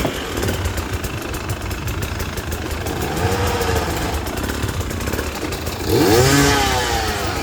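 Dirt bike engine running and revving, its pitch rising and falling twice: once about three seconds in and again, louder, about six seconds in.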